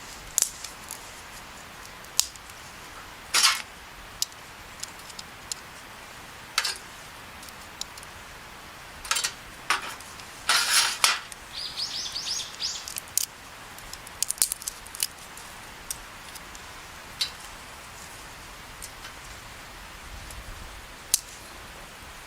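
Scattered clicks and clinks of picnic utensils and cookware being handled, a few sharp taps at a time with short clattering spells, the longest about ten to eleven seconds in. A bird gives a quick run of high chirps about twelve seconds in.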